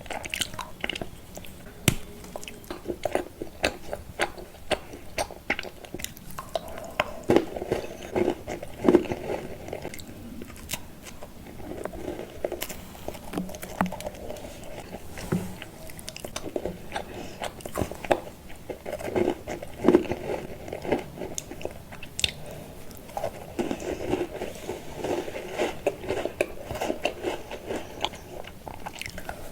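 A person chewing and biting chocolate candy, with many sharp crunches and clicks scattered irregularly throughout.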